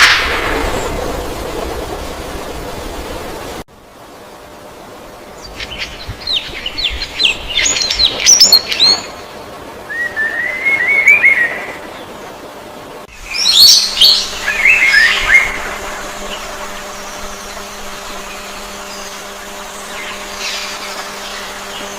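Songbirds chirping in quick clusters of high calls, with one bird giving a short warbling trill, in separate spliced recordings that cut in abruptly. The last part carries a faint steady hum under the calls.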